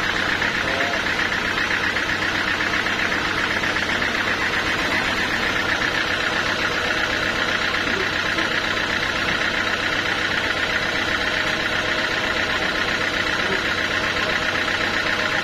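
Sawmill machinery running steadily: an engine-like hum with a higher whine held at one even pitch and loudness, with no change as of a cut starting or stopping.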